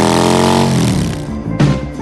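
Harley-Davidson CVO Breakout's V-twin running at a steady, slightly uneven idle through its exhaust. About a second in, the engine note falls away and guitar music takes over.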